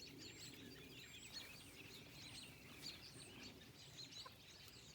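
Faint, quick chirps of small wild birds, repeated throughout, over a low steady background hush.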